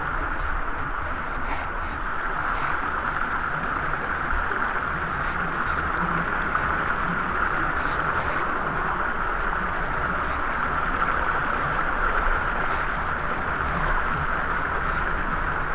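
Waterfall pouring steadily into its pool: a constant, unbroken rush of water.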